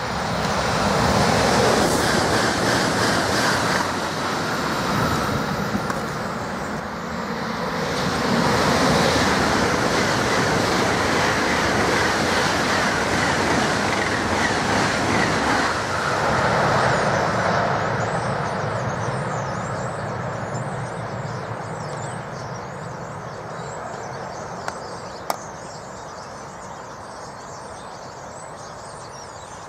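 High-speed trains running past: a Southeastern Class 395 Javelin in the first few seconds, then a Eurostar Class 373 set with a long, steady rush of wheels and air that fades away after about sixteen seconds. Birds chirp faintly near the end.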